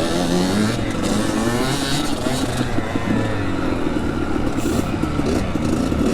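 Dirt bike engine running under throttle as it is ridden, its pitch rising and falling several times through the gears and throttle changes.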